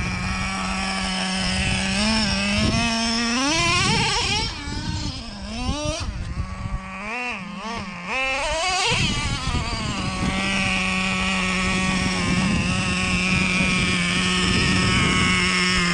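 Nitro RC truck engine revving up and down in a run of throttle blips, then held at a steady high-pitched whine from about ten seconds in.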